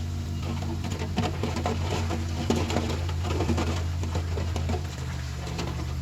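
Heavy earthmoving machine's diesel engine running low and steady, with many small clicks and knocks over it; its note shifts about five seconds in.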